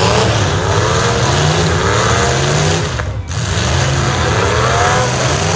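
Demolition derby car engines revving over and over, each rev a quick climb in pitch, with a brief lull about three seconds in.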